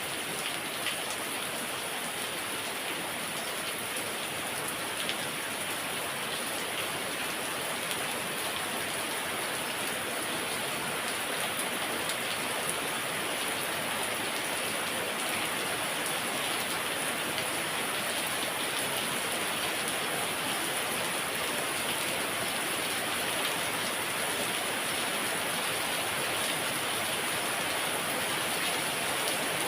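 Heavy rain falling steadily, an even rush with individual drops pattering on surfaces.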